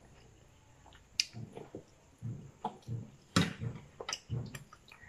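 Close-up eating sounds: chewing and mouth noises over steamed momo dumplings, in short separate bits, with a few sharp clicks, the loudest about three and a half seconds in.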